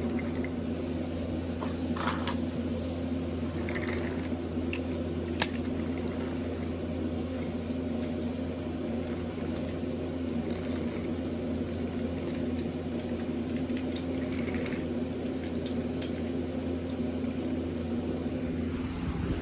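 Steady low mechanical hum with a few faint clicks, and one sharp tick about five seconds in.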